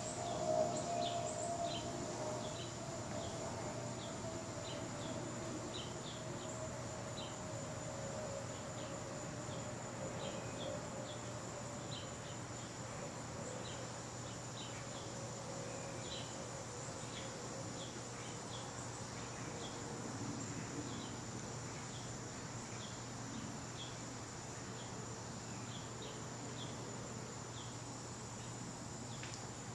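CEC/Fairbourne spinner ceiling fan running on medium speed: a steady motor hum with a thin high whine, and a tone that slides slowly lower over the first dozen seconds. Faint, irregular light ticks run over it.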